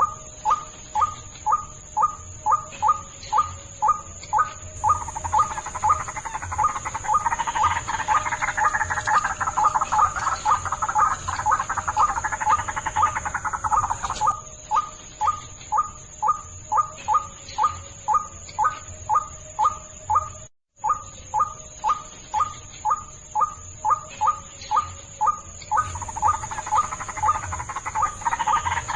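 White-breasted waterhen calls played as a bird-trapping lure: a short call repeated steadily about two and a half times a second, twice swelling into a faster, denser chattering stretch. A steady high-pitched tone runs underneath, and the sound cuts out for a split second about two-thirds through.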